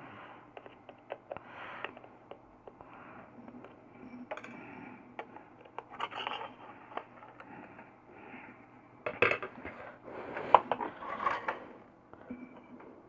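Small hard parts and tools being handled on a work surface while an LED light is taken apart: irregular clicks, clinks and short scrapes, loudest about nine to eleven seconds in.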